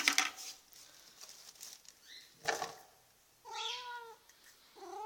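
Domestic cat calling: a couple of short harsh sounds, then two drawn-out meows, each holding a steady pitch, the second starting near the end. These are the bark-like calls the cat usually makes at feeding time.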